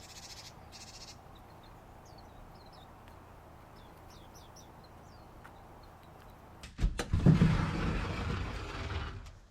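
Small birds chirping faintly over a steady low hum. About seven seconds in, a sudden loud rolling, scraping noise starts with a couple of clicks and lasts over two seconds.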